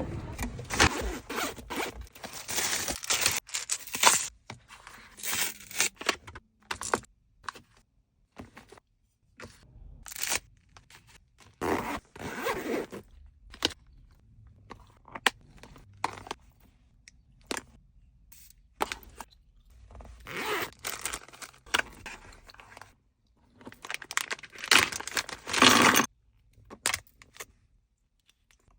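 Handling noise from restocking supplies: packaging and small items crinkling, scraping and clicking as they are unpacked and put away, in irregular bursts with short pauses between.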